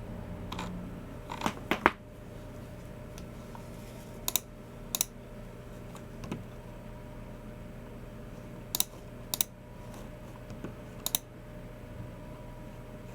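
Sparse clicks from a Logicool MX Keys Mini keyboard and a Logicool G304 mouse: single clicks and pairs with pauses of a second or more between them, and a quick run of three or four under two seconds in. A faint steady hum underneath.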